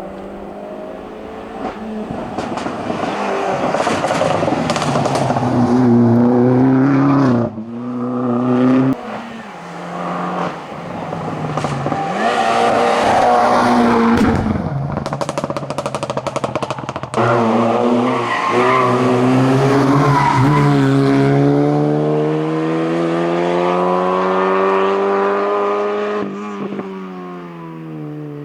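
Hillclimb cars running flat out: an Opel Corsa's engine revs up and drops back at gear changes. About two-thirds of the way through, an Opel Astra takes over, its engine note rising steadily through one long pull before dropping at a shift near the end.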